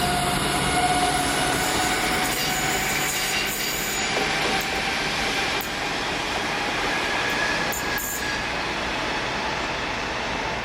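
Pesa SA132 diesel railbuses moving off along the track: steady running noise with thin high wheel squeal tones, and a few sharp clicks of wheels over rail joints between about 3 and 8 seconds in.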